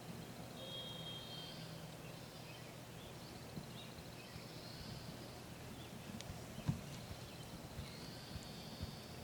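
Small songbirds singing faintly, short high trills and whistled phrases every second or two, over a low steady outdoor hum, with one sharp click about two-thirds of the way through.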